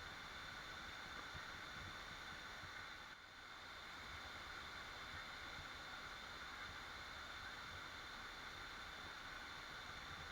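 Waterfall running: a faint, steady rush of falling water, with a brief dip about three seconds in.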